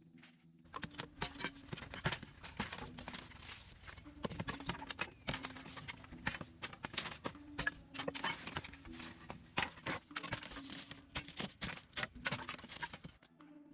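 Rapid, irregular knocking and scraping, like hand tools working on earth or stone, that starts just under a second in and stops shortly before the end, over faint background music.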